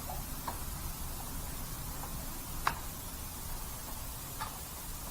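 A few light, separate clicks from hand tools and wheel hardware as a rear wheel is fitted, the loudest about two and a half seconds in, over a steady low hiss.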